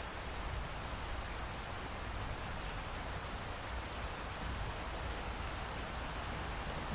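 Steady rainfall, an even hiss of raindrops falling on surfaces.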